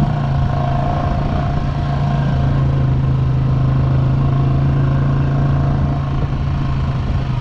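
ATV engine running at a steady speed while riding, a constant low drone with no change in pitch.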